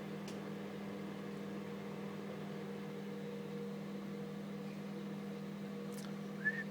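Microwave oven running with a steady hum while it heats pancake batter. Someone starts whistling a tune near the end.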